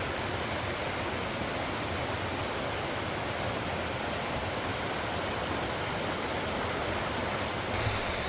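Waterfall's steady rush of falling water, with a brighter hiss added near the end.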